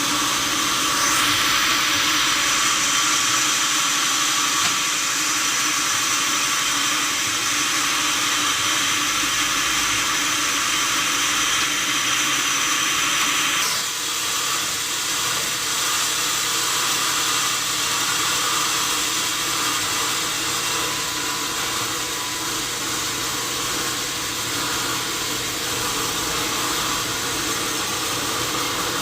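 Sawmill machinery running steadily, with a high-pitched whine that starts about a second in and cuts off suddenly about halfway through.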